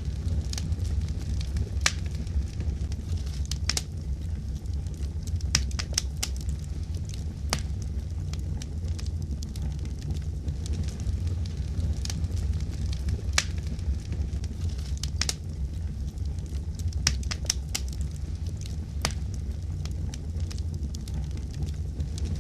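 Wood fire crackling in a fireplace: irregular sharp pops and snaps, several close together now and then, over a steady low rumble.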